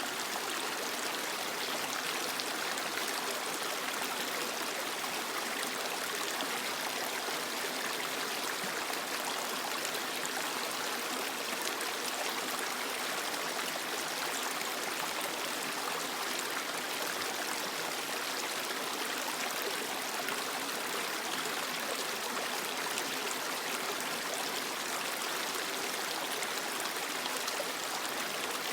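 Creek water flowing over rocks, a steady rushing and trickling with no change.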